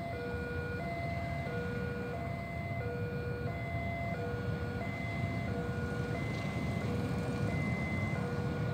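Passenger train running across a steel truss railway bridge, a steady low rumble that grows slightly louder toward the end. Over it a two-tone electronic chime alternates between a lower and a higher note about every two-thirds of a second.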